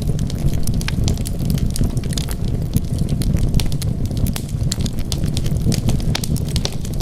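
Wood fire burning in a fireplace: frequent sharp crackles and pops, several a second, over a steady low rumble of the flames.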